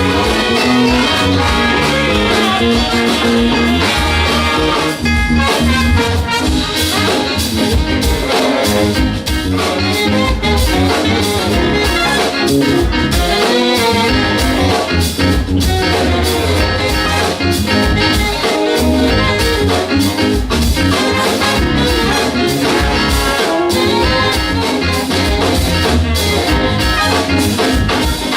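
Big band playing an instrumental passage, brass section to the fore over a steady beat.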